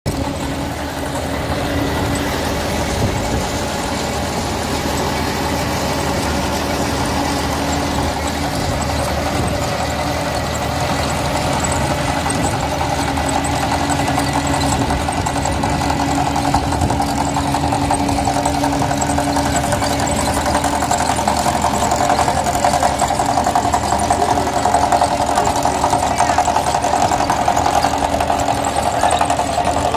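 Mahindra 275 XP Plus tractor's three-cylinder diesel engine running steadily, getting gradually louder over the second half, with a rising mechanical whine.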